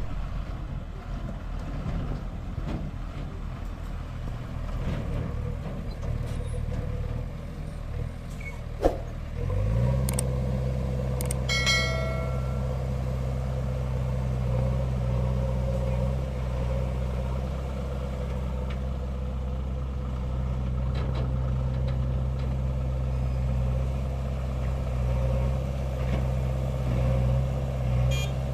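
Heavy diesel engine of a JCB 3DX backhoe loader running at a worksite. A sharp knock comes about nine seconds in, and the engine then settles into a louder, steady, deeper drone at higher speed. A short high tone sounds briefly about twelve seconds in.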